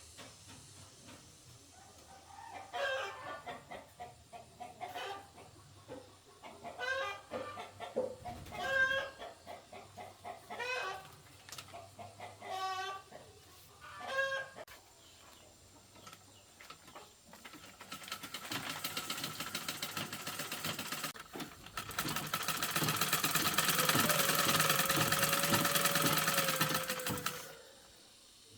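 Chickens clucking and calling, about seven short calls every couple of seconds. Then a steady mechanical running noise starts, grows louder partway through and cuts off suddenly near the end.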